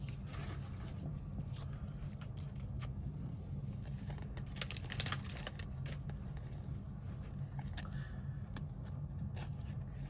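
Foil wrappers of baseball card packs being torn open and crinkled by hand, in scattered crackles and rustles, busiest about four to five seconds in, over a steady low hum.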